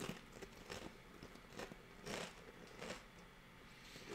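A person chewing a crunchy corn snack chip: faint, irregular crunches, the loudest a little after two seconds in.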